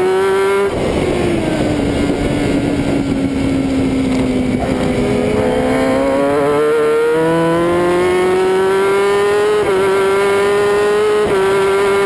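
1000 cc superbike engine running hard at high revs. The pitch drops about a second in, sags slowly, then climbs again from about six seconds, with two brief breaks near the end like quick gear changes, all over a steady rush of wind.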